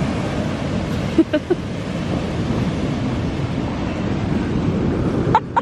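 Steady wind buffeting the microphone over the wash of ocean surf, with a few brief short sounds about a second in and again near the end.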